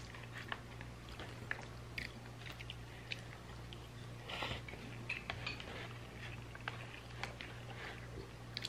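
Close-up mouth sounds of someone eating pancit palabok noodles: soft wet chewing with small scattered clicks. There is a brief louder slurping noise as a forkful goes in, about four and a half seconds in, over a faint steady low hum.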